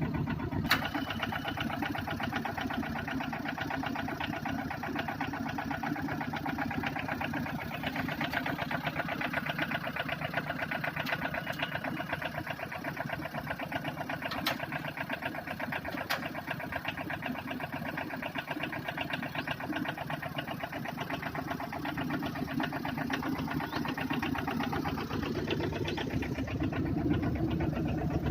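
Tata Ace mini truck's engine idling steadily, with a few sharp clicks over it and a slight rise in level near the end.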